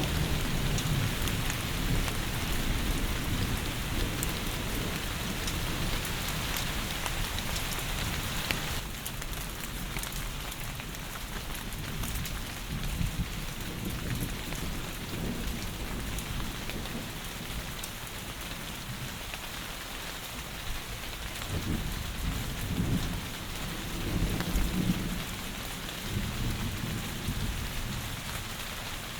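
Heavy rain falling steadily, with low rumbles of thunder at the start and again about three-quarters of the way through. A third of the way in, the rain's hiss suddenly turns softer.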